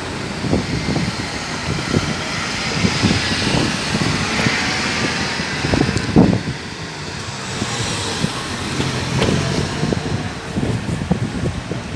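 Engine noise from a departing Sky Express airliner, a steady rush whose pitch drifts down and then rises again, with wind buffeting the microphone.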